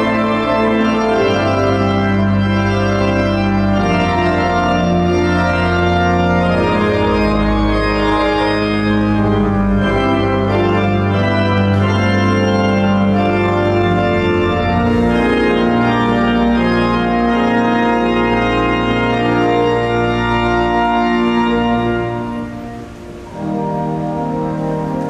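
Pipe organ playing full, sustained chords over deep pedal notes. Near the end the upper notes fall away and the sound dips briefly, then a new chord comes in.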